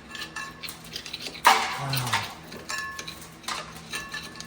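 Metal hub parts and hand tools clinking and ringing against each other, with one loud clank about a second and a half in.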